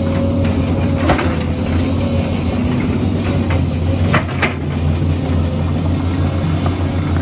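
Excavator's diesel engine running steadily with a constant whine, broken by a few sharp knocks about a second in and twice around four seconds in.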